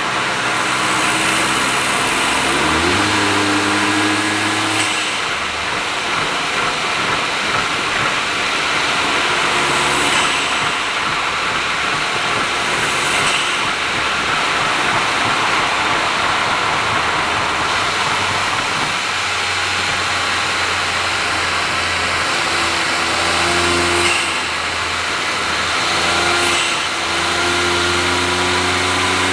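Honda S660's turbocharged 658 cc three-cylinder engine running through an HKS exhaust at expressway speed, its note rising and falling several times with the throttle over a steady hiss of tyre and road noise.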